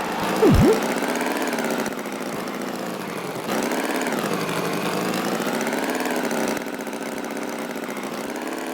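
Tractor engine running, its pitch wavering slowly up and down and its loudness stepping down and up a few times. A short swooping tone dips and rises about half a second in.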